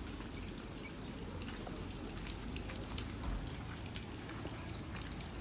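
Fermenting sugarcane juice fizzing in an open tank, a steady crackle of tiny popping bubbles; the fizz comes from natural fermentation, not heat.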